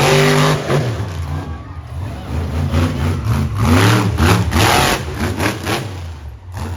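Monster truck engine revving hard, its pitch rising and falling again and again, with a big climb about four seconds in.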